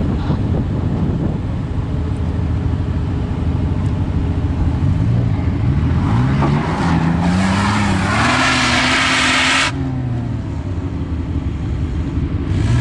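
Off-road 4x4 engine revving hard as it climbs a sand dune, its pitch rising over several seconds. From about seven seconds a loud rush of noise joins it and cuts off suddenly near ten seconds, leaving a lower engine rumble.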